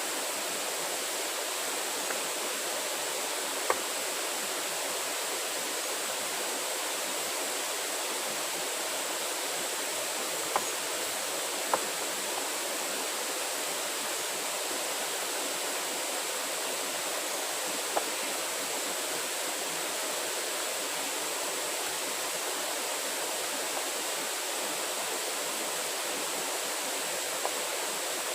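Steady rushing noise like running water, with a few sharp cracks now and then.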